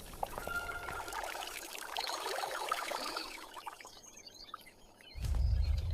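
Water pouring and trickling, with small clinks, then a low rumble starts about five seconds in.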